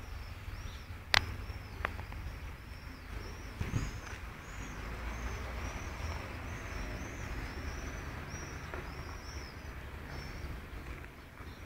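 Birds chirping over and over above a steady low rumble, with one sharp click about a second in.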